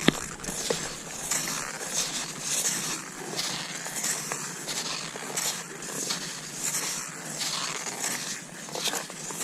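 Cross-country skis swishing over snow in a steady stride rhythm, a hissing swish a little more than once a second, with a sharp click right at the start.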